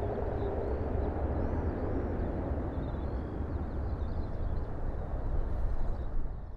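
Jet airliner engines rumbling steadily, with a steady tone that fades in the first second. Birds chirp faintly over it. The rumble fades away near the end.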